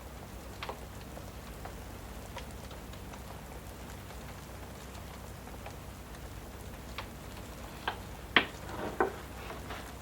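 Steady rain with scattered fireplace crackles and pops. The sharpest pop comes about eight seconds in, amid a short cluster of crackles.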